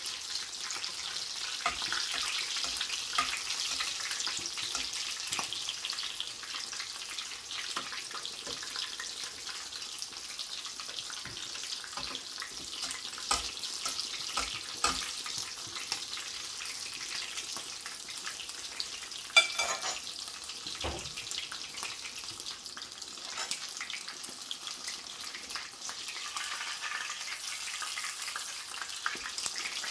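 Breaded chicken fillets shallow-frying in sunflower oil in a frying pan: a steady sizzle, with scattered clicks and taps, the sharpest about two-thirds of the way through.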